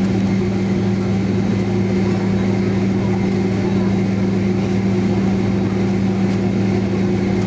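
Boeing 767 cabin hum heard from a window seat on the ground: the jet engines at idle and the cabin air make a steady, even drone with a low hum.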